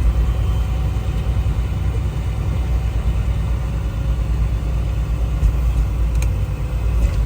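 Semi-truck engine running, heard from inside the cab as a steady low rumble.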